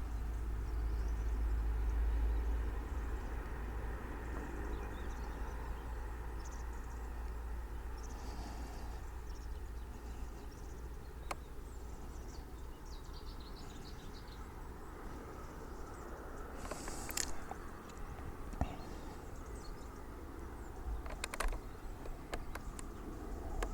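Outdoor ambience: a steady low rumble on the microphone, loudest in the first few seconds, with faint high bird chirps and a few sharp clicks.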